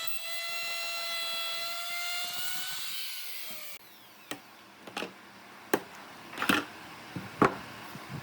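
Power tool motor whining steadily at a high pitch, easing down slightly before cutting off abruptly about four seconds in. Then several sharp knocks, roughly one a second.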